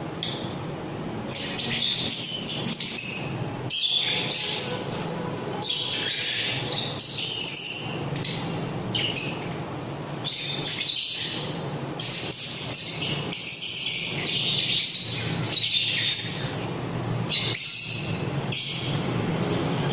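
Mixed flock of small pet parrots such as budgies, lovebirds and cockatiels chirping and chattering together, in repeated bursts of high calls over a steady low hum.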